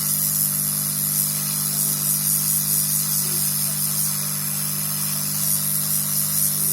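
Hot-air rework station blowing steadily: an even hiss over a low electrical hum.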